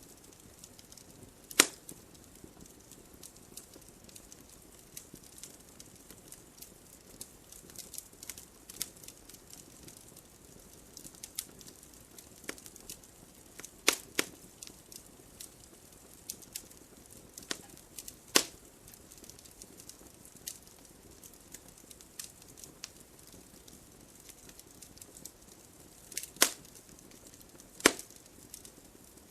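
Wood fire crackling: a low steady hiss with scattered small ticks and a few loud sharp pops from the burning wood.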